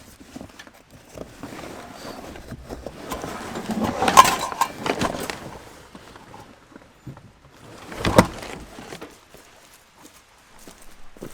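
Rustling and knocking of camping gear being handled while a camp is set up, with louder clatters about four seconds in and again about eight seconds in.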